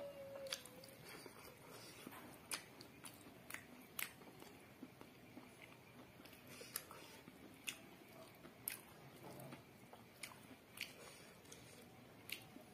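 Faint close-up chewing while eating rice and chicken by hand, with irregular small mouth clicks and smacks about once a second.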